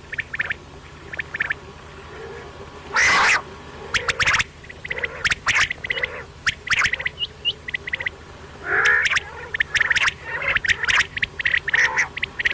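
Quail calling in repeated short phrases of quick sharp notes, with one louder harsh call about three seconds in.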